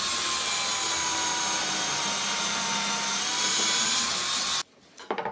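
Electric drill in a drill stand running and boring a hole, a steady motor whine that sags slightly in pitch under load, then stops abruptly about a second before the end.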